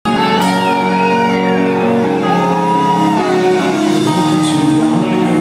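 Live rock music heard from the audience in a large hall: electric guitar holding notes and bending pitch over the band, with crowd shouts.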